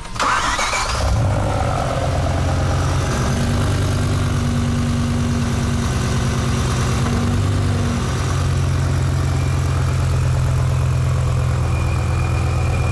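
BMW M5 E60's V10 engine starts up and settles into a steady idle. The engine has an odd noise that the mechanics trace to exhaust gas escaping through small gaps in the exhaust.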